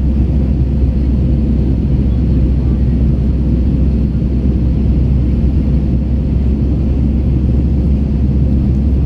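Steady low rumble of jet engines and airflow heard inside the cabin of an Airbus A321 in flight, with a faint steady hum above it.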